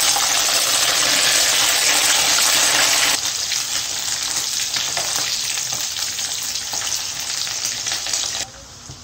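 Peeled, washed bitter gourds (karela) sizzling in hot oil in a frying pan as they go in. The sizzle is loudest for about the first three seconds, settles somewhat lower, then drops off abruptly near the end.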